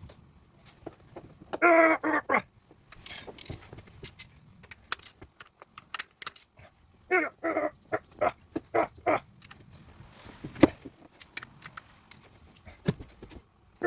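Hand tools and sockets clinking and tapping against metal in irregular clicks, with two short wavering pitched sounds about two and seven seconds in.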